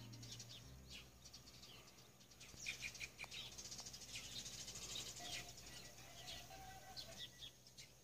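Small birds chirping faintly in short, quick high notes, in a scattered run that is busiest in the middle.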